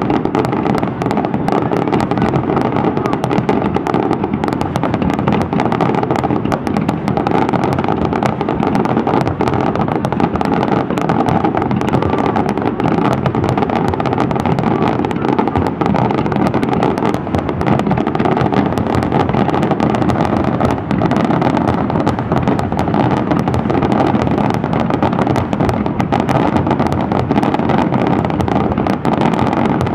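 Aerial fireworks in a dense barrage: many shell bursts and crackles overlapping into one steady, unbroken rumble with no gaps between reports.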